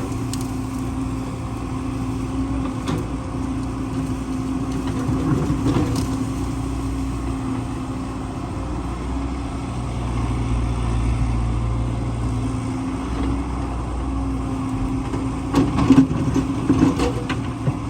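Excavator's diesel engine running steadily with a low hum that swells a little in the middle. A few sharp knocks come near the end.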